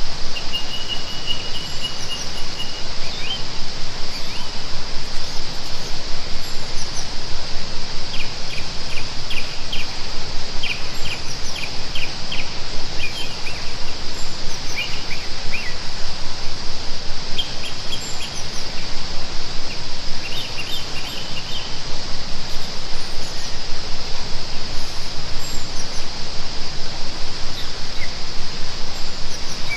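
Forest birds chirping, with a held whistle near the start and quick repeated notes and trills later. Under them runs a steady noisy hiss and a constant high-pitched insect-like drone.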